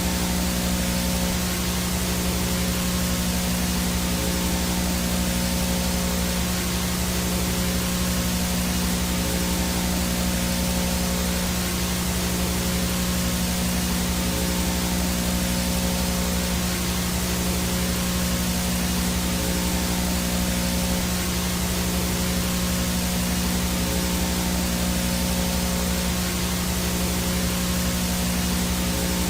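VHS static: an even, steady hiss of analog video noise with a steady low hum and a few faint higher tones under it.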